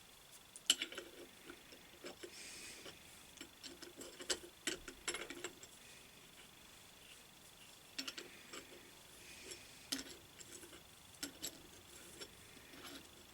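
Irregular small metallic clicks and ticks with a few brief faint scrapes, from hand work clearing and checking the threads of an Atlas 10 lathe steady rest.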